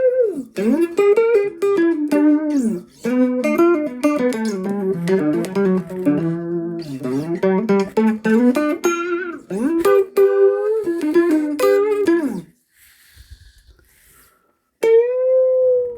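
Electric guitar played through a Peavey UltraVerb digital effects processor on a modulation program that sounds a little flangey or chorusy: a run of single-note lines with many bent, sliding pitches, a short pause about three-quarters of the way through, then a long held note near the end.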